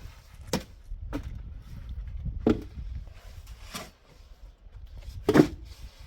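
Five separate knocks at uneven intervals, the loudest near the end, over a steady low rumble.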